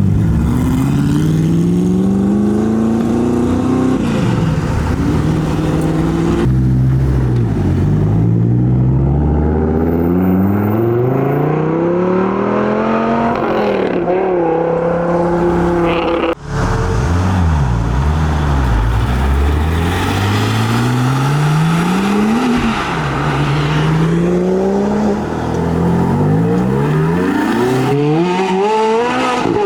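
High-performance car engines accelerating hard and revving. The engine note climbs, drops back at each gear change and climbs again, over and over, as one car after another pulls away.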